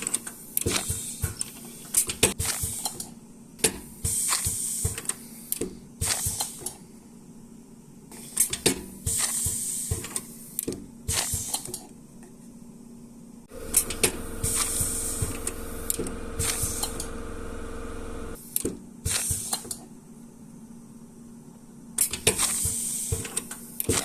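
Workshop handling sounds: frequent clicks, taps and clatter of small hard parts, with several short bursts of hissing, and a small motor running steadily for about five seconds in the middle.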